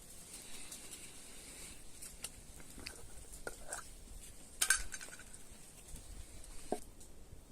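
Scattered light knocks and clinks of objects being handled, with a louder clatter a little after halfway, over a faint high hiss that stops shortly before the end.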